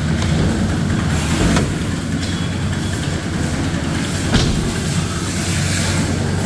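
Steady low machine hum with a light hiss, and a sharp knock about a second and a half in and another about four and a half seconds in.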